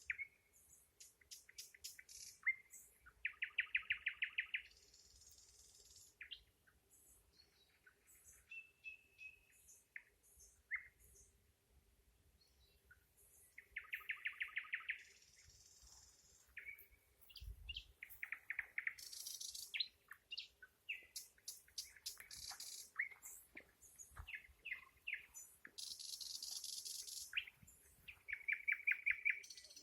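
Nightingale singing in separate phrases a second or two apart. The phrases mix fast runs of repeated notes with high hissy rattles, short whistles and clicks.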